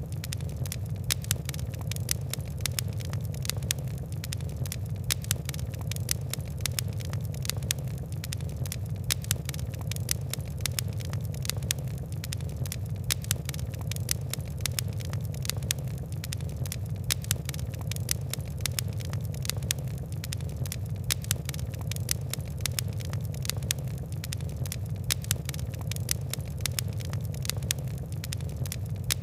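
Fire crackling: a dense, irregular stream of small sharp pops and ticks over a steady low rumble.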